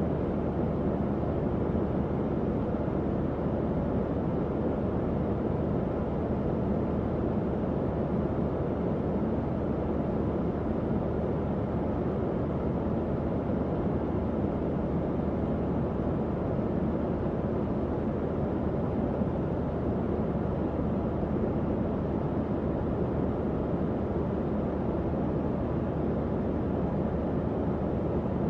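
Tower fan running steadily: an even, low whooshing rush of moving air with a faint hum underneath.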